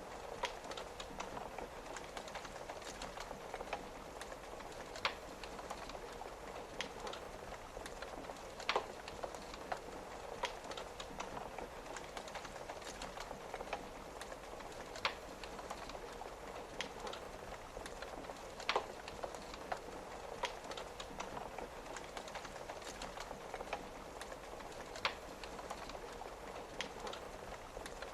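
Wood fire crackling, with a sharp pop every few seconds, over a steady hiss of rain.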